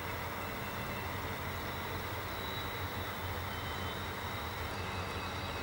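Diesel-hauled passenger train running past at a distance: a steady low rumble that holds even throughout.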